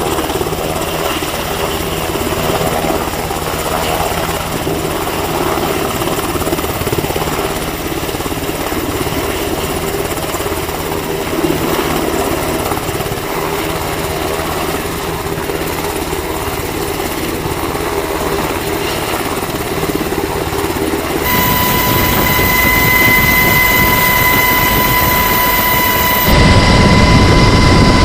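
HH-60G Pave Hawk helicopter running steadily with a continuous rotor and turbine drone. About three quarters of the way through, the sound changes abruptly to a steady high-pitched whine, then near the end to a louder low rumble.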